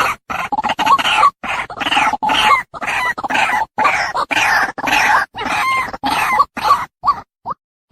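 Female white-breasted waterhen calling: a fast, continuous run of repeated notes, about three a second, thinning to a few short single notes near the end.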